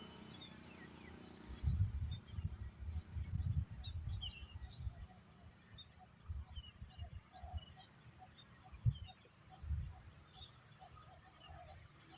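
Outdoor ambience: insects trilling steadily at a high pitch, with scattered short bird chirps and irregular low rumbles, like wind buffeting the microphone.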